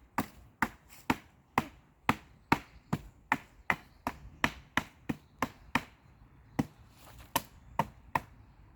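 About twenty sharp wooden knocks, roughly two a second with a short pause near the middle: a piece of wood being struck hard and repeatedly to break it, without it breaking.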